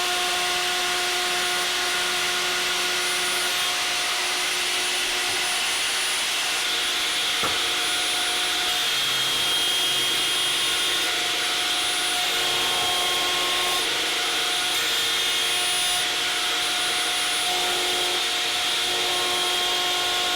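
Triton table router running steadily while trimming wood, a continuous even noise with a few steady tones.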